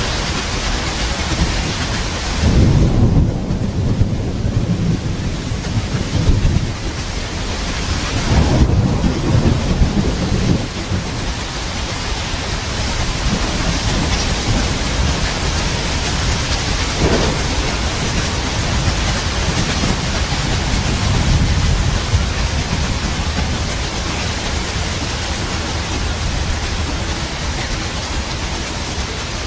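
Steady heavy rain with rolls of thunder: two strong low rumbles, about three seconds in and again about eight seconds in, then fainter rumbling under the rain.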